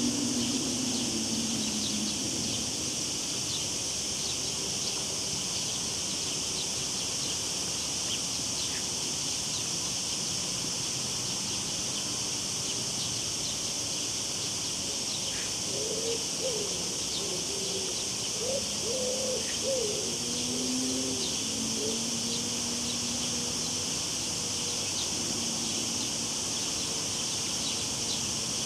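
Cicadas droning in a steady, high-pitched chorus, with a short warbling bird call about halfway through.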